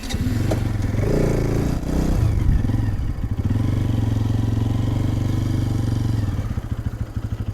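Motorcycle engine running loudly, revved up and down a few times, then held at steady raised revs for a few seconds before dropping back near the end to a slow idle with separate, uneven firing pulses.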